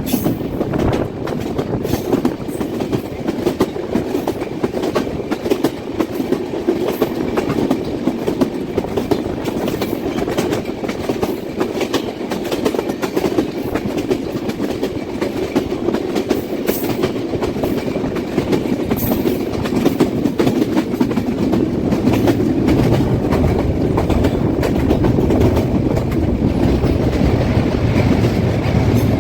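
Kapotaksha Express passenger train running on the rails, a steady rumble with a constant clickety-clack of wheels over the track. The deep rumble grows louder about three-quarters of the way through.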